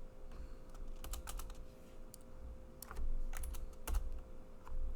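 Computer keyboard typing: scattered key clicks in short flurries, a quick run about a second in and a busier stretch around the middle, over a faint steady hum.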